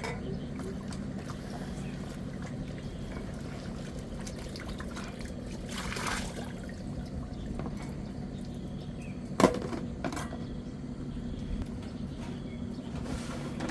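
Water trickling and pouring steadily, with a single sharp knock about nine seconds in.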